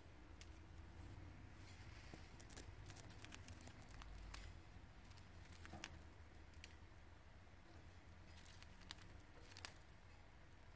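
Near silence with faint, scattered clicks and crackles: a cockatiel nibbling and husking seeds from a millet spray held in the hand.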